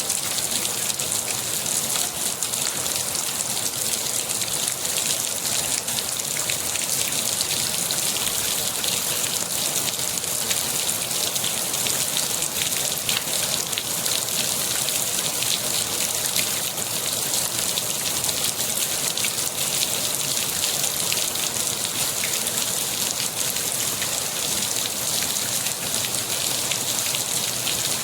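Steady rain falling, an even hiss of many drops striking a surface.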